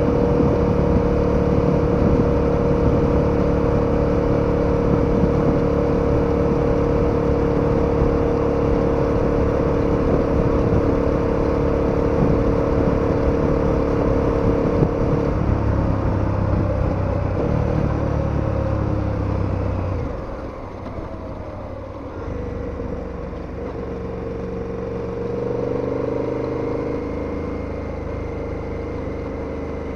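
KTM 1290 Super Adventure's V-twin engine running at a steady speed, then changing about halfway through and easing off to a quieter run for a few seconds, before picking up again with a rising pitch near the end.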